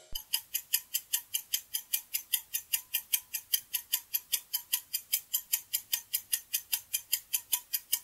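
Clock-tick sound effect counting down a quiz answer timer: sharp, even ticks, about five a second.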